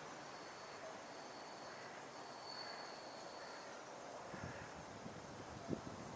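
Faint outdoor insect chorus: a steady high-pitched drone with a repeated shorter trill over it that stops partway through. A few soft low thumps come near the end.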